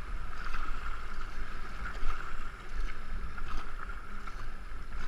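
Two-man racing canoe being paddled downriver: steady rush of water past the hull with the occasional splash of a paddle stroke, over a low rumble on the GoPro microphone.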